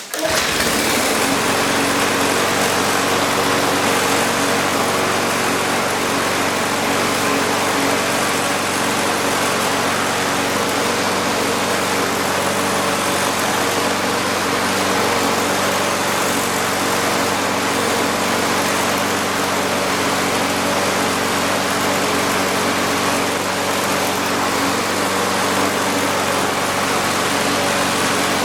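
Briggs & Stratton single-cylinder engine on a Husqvarna LC121P push lawn mower starting up at once and running steadily, without stalling.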